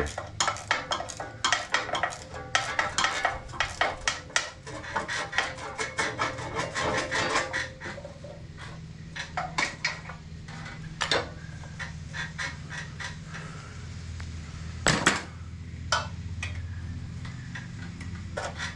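Hand tools and small metal parts clinking and clattering on a go-kart engine as a cover is worked off: a quick run of light metallic clicks for the first several seconds, then scattered knocks with one sharp clank about three-quarters of the way through.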